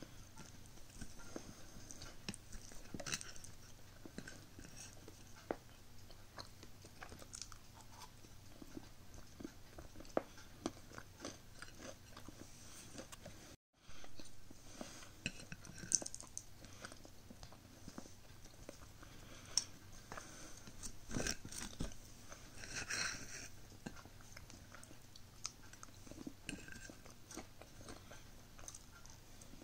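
Faint, close chewing and crunching of a homemade paper pop-tart, with small wet mouth clicks and crackles.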